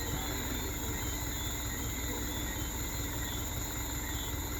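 Heavy truck's engine idling steadily, with faint voices in the background.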